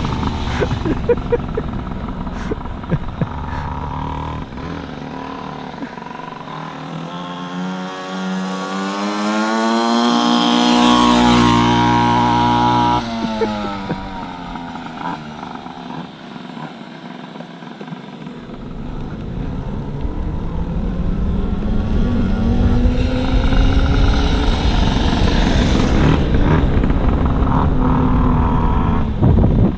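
Pocket bike's small engine revving hard and running past, its pitch climbing to a loud peak about halfway through and breaking off suddenly, then rising and falling again on a second run near the end.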